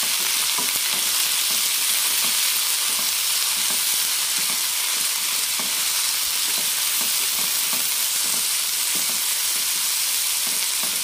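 Chopped tomatoes and onions sizzling in hot oil in a frying pan, sautéing, with a wooden spatula stirring and scraping through them in repeated strokes over a steady sizzle.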